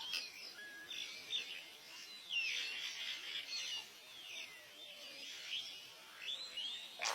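Several birds chirping and calling together: many short, overlapping whistled notes that glide up and down, over a faint background hiss.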